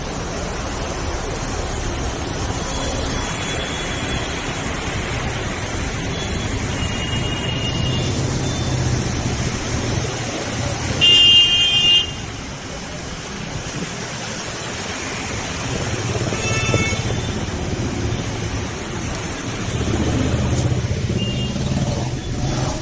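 Steady outdoor rushing noise, traffic mixed with wind, with one loud vehicle horn blast about halfway through lasting about a second and a fainter horn toot a few seconds later.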